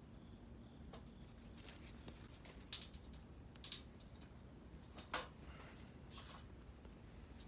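A quiet background with a few scattered short clicks and light knocks, the loudest about five seconds in, as of small objects being handled.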